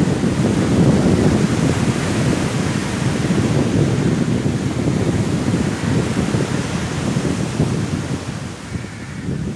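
Strong wind and sea waves breaking on a shore: a dense, steady rush of noise, heaviest in the low range, that eases a little near the end.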